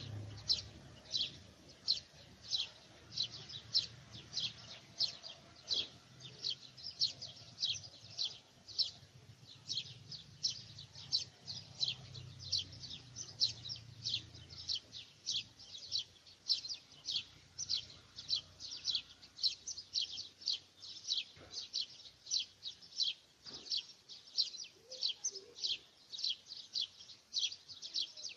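A bird repeating one short, high, falling chirp at a steady pace, about two to three times a second, over a faint low hum that fades out about halfway through.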